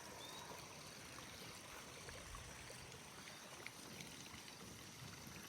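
Near silence: a faint, steady background hiss with a few tiny ticks.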